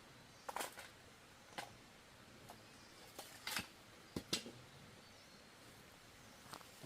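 A few faint, irregular clicks and light taps, one pair a little louder than the rest about four seconds in, over a low steady background.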